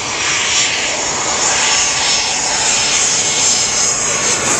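Jet aircraft passing close on its landing approach: a loud, steady jet engine noise.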